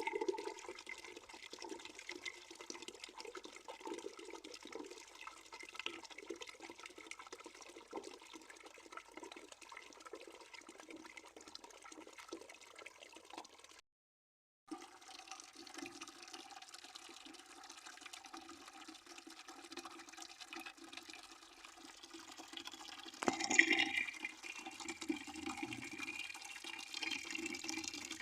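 A steady stream of water pouring into a bucket. The audio drops out for under a second about halfway through, and there is a brief louder splash about two-thirds of the way in.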